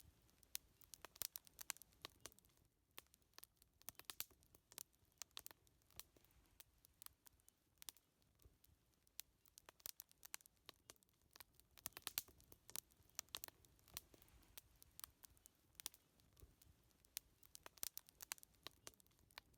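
Wood fire crackling quietly, with irregular sharp pops and snaps, at times several close together.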